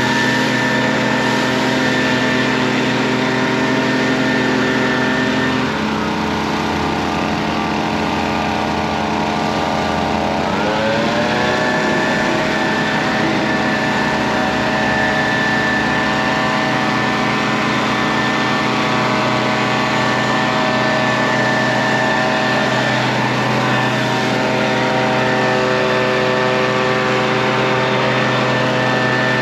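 Stihl RB 400 gas-engine pressure washer running steadily under load. About six seconds in, its engine pitch sags, then climbs back to its normal speed about five seconds later.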